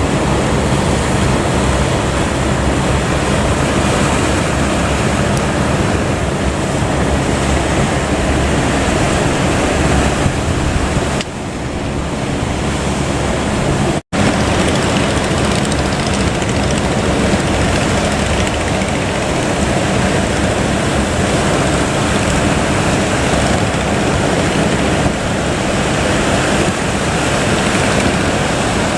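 A boat's engine runs steadily under heavy wind noise on the microphone and the wash of waves. The sound drops out for an instant about halfway through.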